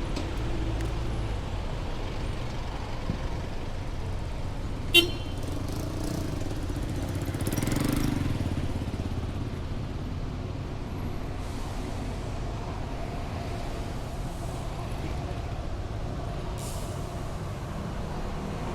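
Heavy rush-hour street traffic: a steady low rumble of engines, with one short, sharp horn toot about five seconds in and a louder vehicle passing a few seconds later.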